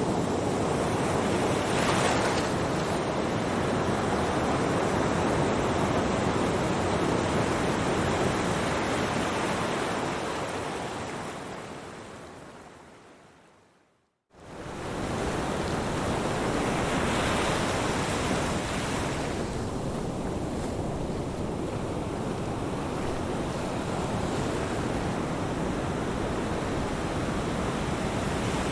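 Ocean surf washing in a steady rush, with swells of waves breaking. About halfway through it fades away to silence over a few seconds, then quickly comes back.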